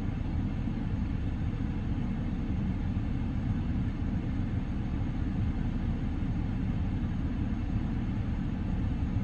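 BMW N55 turbocharged straight-six idling steadily, a constant low rumble, while the car's electronic oil-level check runs.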